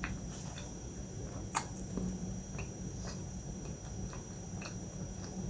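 A person chewing milk pie pastry with the mouth closed: soft, irregular mouth clicks and smacks, about eight or nine in all, over a steady low hum.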